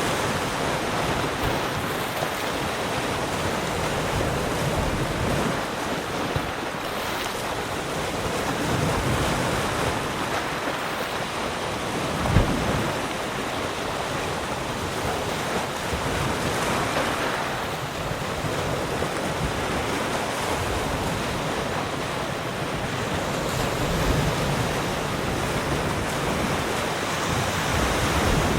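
Sea surf: waves breaking and washing on the shore in a continuous rushing noise that swells and eases every few seconds, with a brief low thump about twelve seconds in.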